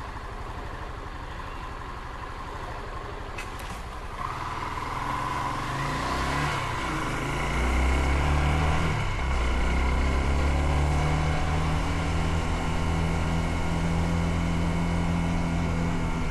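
Motorcycle engine idling, then pulling away about four seconds in. It rises in pitch through two gear changes and settles into a steady cruise.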